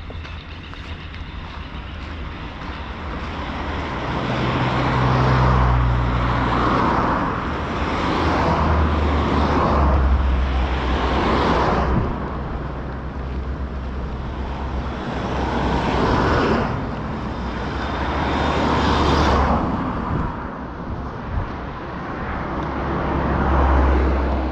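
Road traffic: several vehicles pass one after another, their tyre and engine noise swelling and fading in turn, over a steady low rumble.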